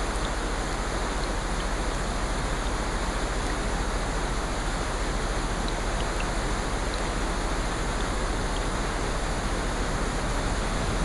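Steady, even rushing of water from a nature-sound recording, with a few faint scattered ticks.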